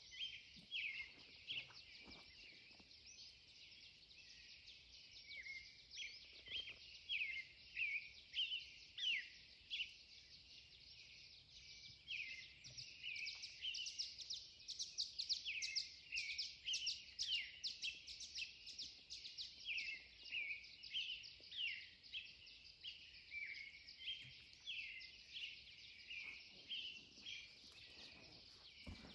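Dawn chorus of many birds singing at once: a dense, overlapping stream of short, high chirps and down-sweeping notes, busiest in the middle.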